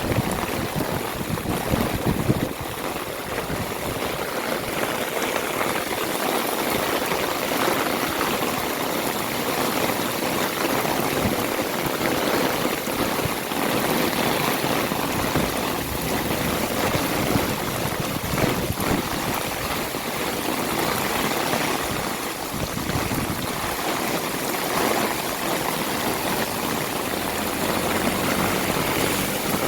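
Heavy rain falling in a steady hiss, with water running and splashing.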